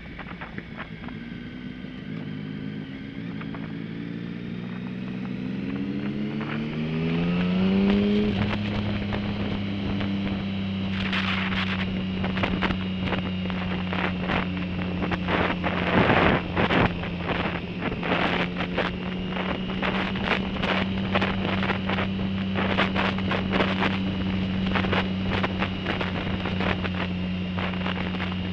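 Motorcycle engine heard from the rider's own bike, its pitch rising steadily for several seconds as it accelerates, then holding a steady note while cruising. Wind buffets the microphone through the second half.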